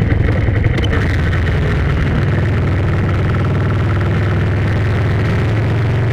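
Steady low engine hum, like a vehicle running.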